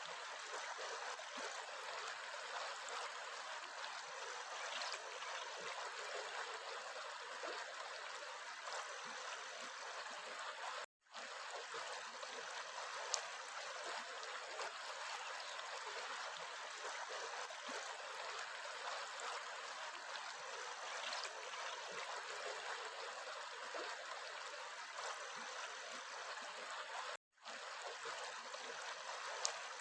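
Water running in a stream, a steady rushing with no tones. The sound cuts out for a split second twice, about eleven seconds in and near the end, and there is a single sharp click about thirteen seconds in.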